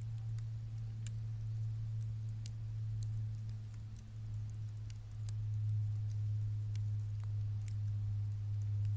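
Bamboo burning in a bottomless 18-litre square can, crackling with scattered sharp pops and ticks, over a steady low hum.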